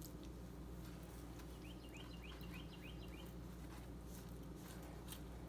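A bird chirping faintly, a quick run of about eight short high notes around two seconds in, over a steady low room hum.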